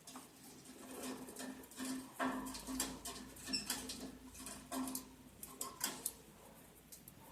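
Lovebirds moving about in their cage or nest box: irregular scratching, clicking and rustling, with one brief faint chirp about halfway through.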